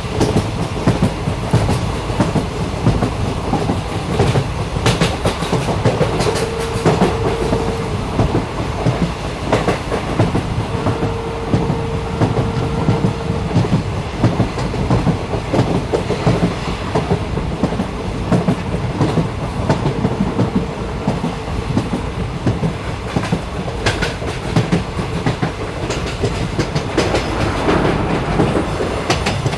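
Train running along the track, heard from aboard: a steady rumble with the clickety-clack of wheels over rail joints. A faint whine comes in briefly twice, about six and eleven seconds in.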